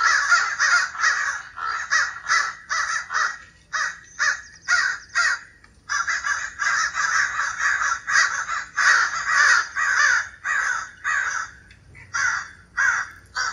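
Recorded calls of several crows cawing in an agitated, excited tone, played back through a Bluetooth speaker: a steady run of caws about two a second, with brief pauses.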